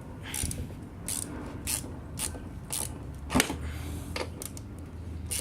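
Ratchet wrench with an 8 mm socket, clicking in short bursts about every half second as the handle is swung back and forth, with one sharper, louder clack about three and a half seconds in.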